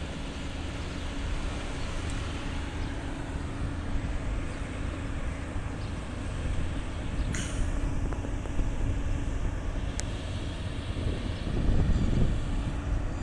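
Volvo heavy-haul truck running with a steady low engine and road rumble, swelling louder about eleven seconds in. A short hiss sounds about seven seconds in.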